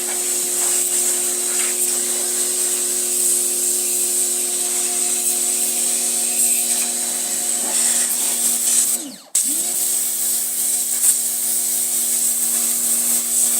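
Pressure washer running, its motor humming steadily under the hiss of the water jet. About nine seconds in the motor cuts out and winds down for a moment, then starts and winds back up as the spray resumes.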